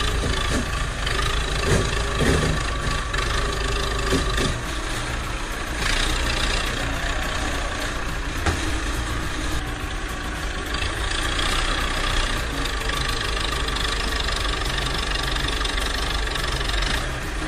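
IMT 577 farm tractor's diesel engine running steadily, with a few short knocks in the first few seconds.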